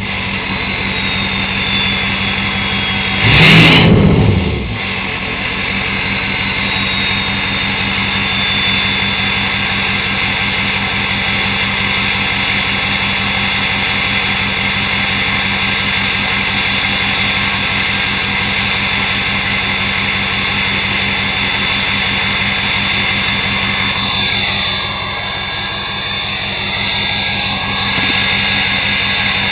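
2006 Ford F-350's 6.0-litre Power Stroke diesel V8 idling through a straight-piped 4-inch exhaust with no cat or muffler, warming up after a cold start at 10 degrees. The engine is blipped once, in one short, loud rev about three and a half seconds in.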